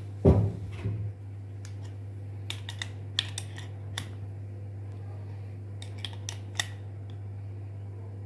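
A single loud knock from the bearing puller working a 6202 ball bearing off a ceiling fan's motor shaft, followed by scattered light metallic clicks and taps of the puller and parts being handled.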